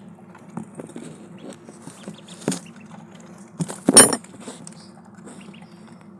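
Ducklings' bills pecking and tapping at a food and water dish in scattered small clicks, with one sharp, loud clink about four seconds in, over a steady low hum.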